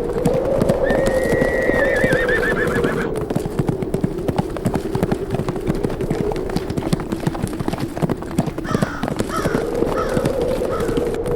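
Horses galloping, their hoofbeats drumming steadily, while one horse gives a long whinny about a second in and shorter neighs follow near the end. A steady wind with a slowly wavering pitch blows underneath.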